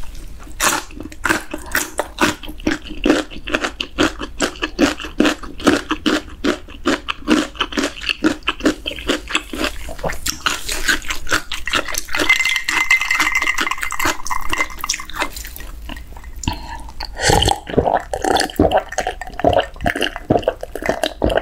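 Close-miked wet chewing of a person eating: many quick mouth smacks and clicks, with a softer, steadier stretch in the middle.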